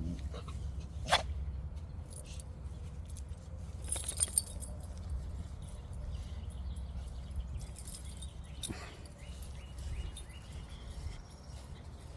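Dogs moving about outdoors with faint scuffs and clicks, a sharp click about a second in and a brief metallic jingle about four seconds in, over a steady low rumble.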